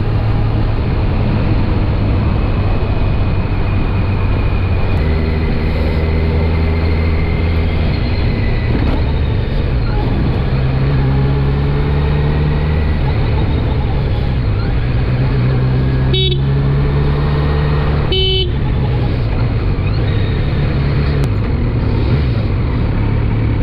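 Road traffic at a highway toll plaza: a steady engine hum with vehicles passing and changing pitch, and two short vehicle horn honks about two seconds apart, around two-thirds of the way through.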